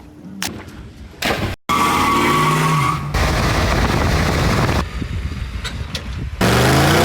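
Car engine running and revving in several short segments spliced together, the pitch rising and falling, with abrupt changes between segments about a second and a half, three, five and six and a half seconds in.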